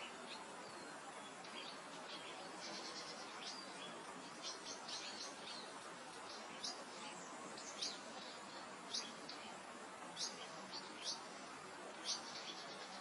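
Soft wind over open grassland with small birds chirping: short high chirps throughout, a brief rapid trill about three seconds in, and clearer single chirps roughly once a second in the second half.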